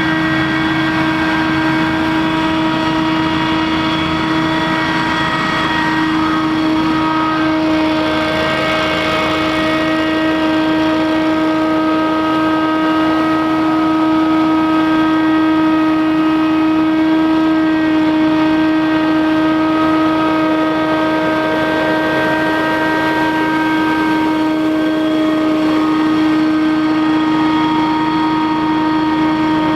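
Scag Windstorm debris blower running steadily, its engine and fan giving a loud, even drone with one strong steady tone.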